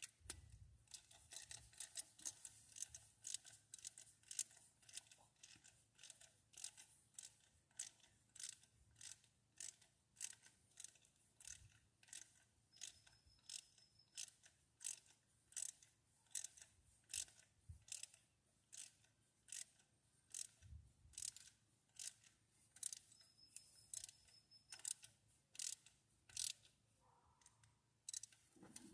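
Hand socket ratchet clicking faintly, about two clicks a second in a steady run, as nuts are turned down on the engine.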